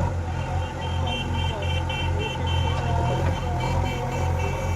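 Heavy machinery's diesel engine running hard under load, with a reversing alarm beeping in quick repeated pulses from about a second in to near the end.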